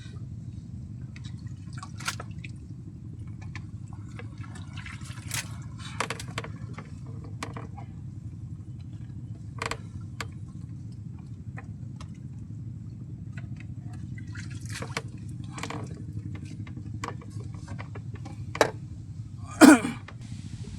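Water splashing and dripping in scattered bursts over a steady low rumble, with two louder sharp sounds near the end.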